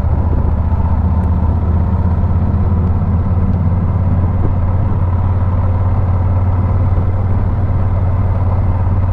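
Motorcycle engine running steadily with a constant low drone, with no change in pitch or level.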